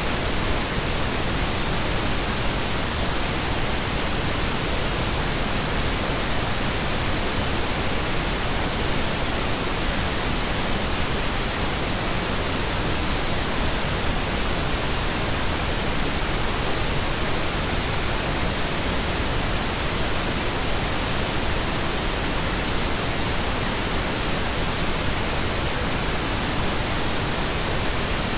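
Steady synthetic pink noise: an even, unbroken hiss with no changes or events.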